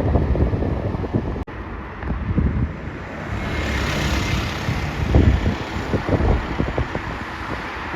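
Strong wind gusts buffeting the microphone. From about three seconds in, a jet airliner's engines come in as a rising hiss with a faint whine as it comes in to land.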